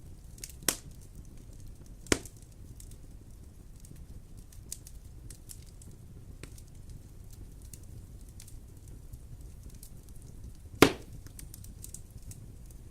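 Wood fire crackling in a fireplace over a low steady rumble, with many small ticks and three sharp, loud pops: one just under a second in, another about two seconds in, and the loudest near the end.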